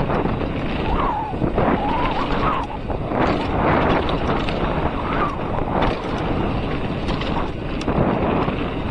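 Wind buffeting the microphone of a camera riding on a mountain bike moving down a trail, a loud, even rushing noise with faint ticks and rattles mixed in.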